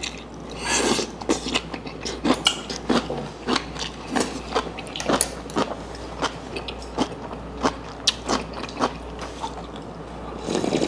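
Close-miked eating sounds: a man chewing a mouthful of seafood stew, with wet clicks and smacks about twice a second, then slurping broth from a bowl near the end.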